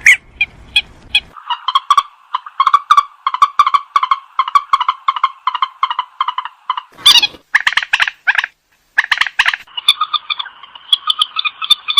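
Purple swamphen calling: a long run of rapid repeated call notes, several a second, with a short pause about two-thirds through.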